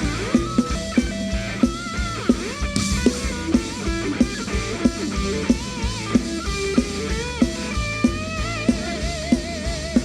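Rock band playing an instrumental break: a lead guitar solo with bent notes and vibrato over a steady drum beat and bass.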